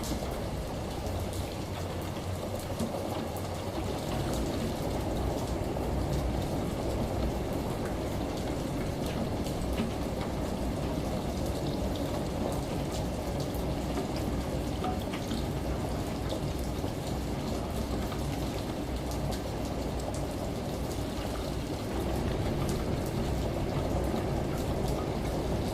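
Layered ambience of steady rain and running shower water over a washing machine's low rumble, with scattered drip ticks; it gets a little louder twice, a few seconds in and near the end.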